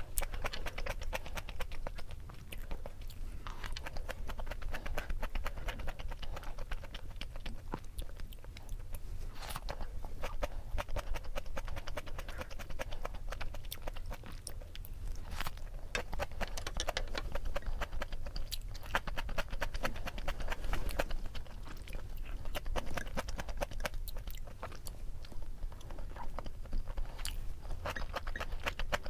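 A person chewing seasoned spring cabbage (bomdong) and mixed rice: a steady run of fine crunches and mouth clicks, with a few sharper snaps of the leaves.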